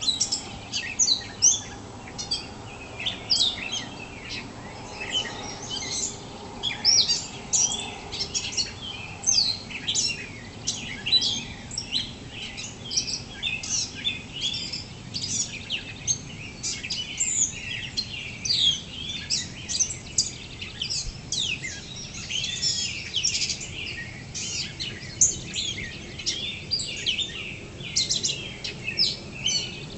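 Dawn chorus: many songbirds singing at once, a dense, unbroken overlap of short chirps and whistles.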